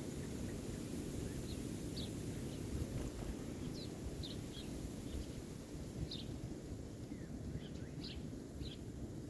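Small birds chirping: short, high calls every second or so, over a steady low background rumble.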